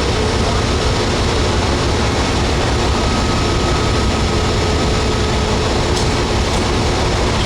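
Amtrak Southwest Chief standing at the platform with its diesel locomotives idling: a steady, loud low rumble with a faint steady whine over it.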